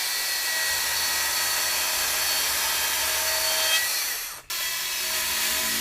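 Chainsaw running steadily as it cuts into a wooden log, with a brief break about four and a half seconds in.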